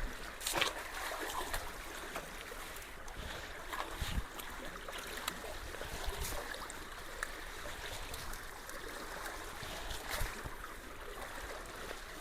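Steady rush of creek water flowing into a partly clogged culvert, with a few faint knocks and splashes about half a second, four seconds and ten seconds in.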